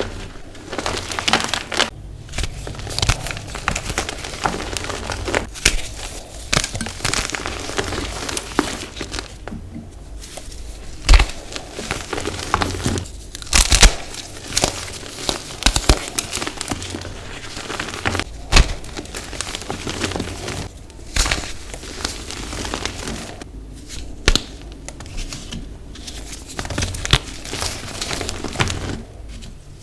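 Blocks of dyed gym chalk being crushed and crumbled by hand: a dense, irregular run of dry crunches and crackles, with a few sharper, louder snaps along the way.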